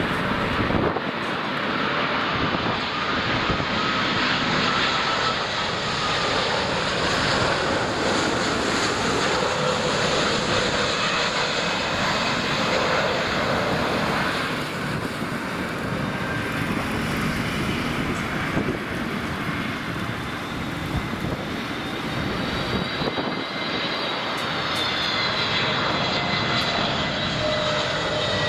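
Jet engines of a Virgin Atlantic Airbus A350 (Rolls-Royce Trent XWB) as the airliner passes the airport perimeter: a continuous jet roar with thin engine whines, which drop in pitch near the end as the aircraft goes past.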